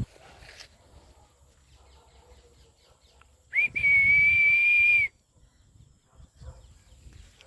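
A single high, steady whistling tone lasting about a second and a half, just after a brief blip of the same pitch, midway through; faint rustling and small knocks around it.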